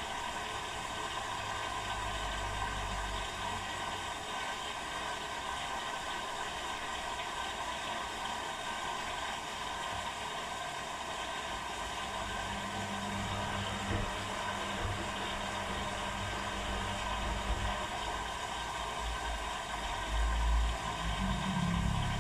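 Two washing machines, an Electrolux and an Arctic, running their quick wash programmes: a steady machine hum with low rumbles that come and go as the drums turn.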